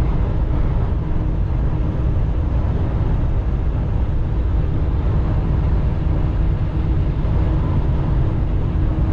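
Steady low rumble of a semi-truck under way on the highway, with engine and road noise heard from inside the cab.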